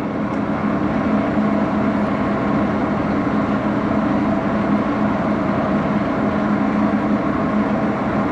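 Axelson engine lathe running steadily, not cutting, with an even mechanical hum and a constant low tone.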